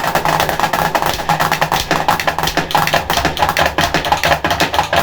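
Percussion music: dense, fast drumming with many sharp strikes in quick succession, running steadily.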